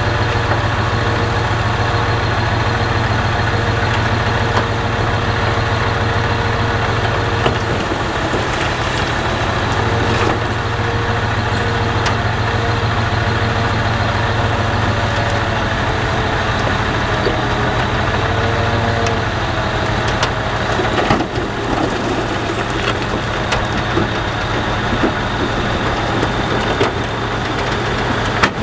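Heavy earthmoving machine's engine running steadily under load, with a thin whine above it and scattered clanks; the low engine note drops a little about three-quarters of the way through.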